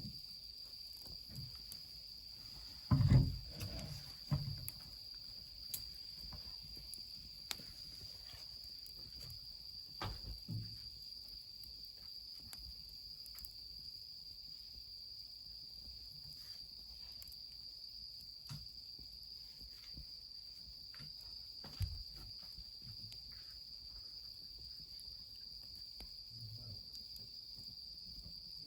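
Steady high-pitched insect chirring in the mountain night, with the occasional crackle and knock from the wood fire, the loudest about three seconds in and smaller ones later on.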